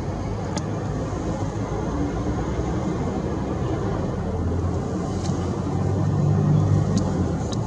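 A motor vehicle's engine rumbling steadily and growing louder about six seconds in, as if passing close by, with a few faint short bird chirps above it.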